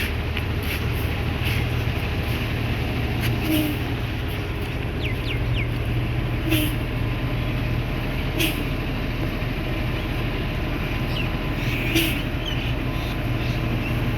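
Truck running, a steady low engine rumble, with sharp clicks and rattles every couple of seconds and a few brief high squeaks about five seconds in.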